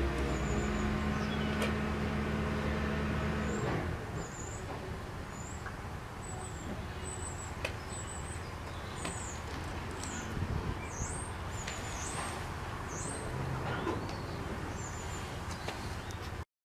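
A steady low engine-like hum that stops about four seconds in, followed by small birds chirping over outdoor background noise: short high-pitched chirps repeating irregularly. The sound cuts off abruptly near the end.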